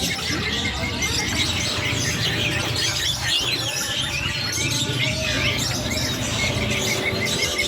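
Several small songbirds chirping and twittering in rapid, overlapping short notes.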